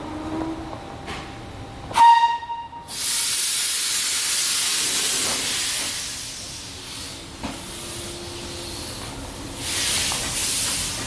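Steam locomotive giving a short whistle, followed by loud hissing blasts of steam.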